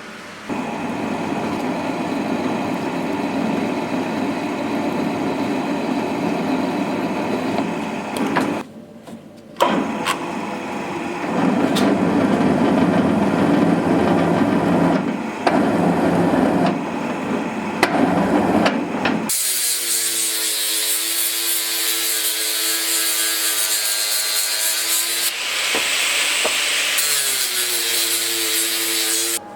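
Electric workshop power tool running under load, with short breaks near the 9-second mark; about two-thirds of the way through its sound changes to a higher hiss with a pitch that shifts up and down.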